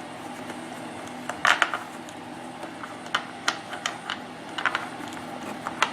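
Irregular light clicks and taps of small tools and parts being handled, with a quick cluster of clicks about a second and a half in.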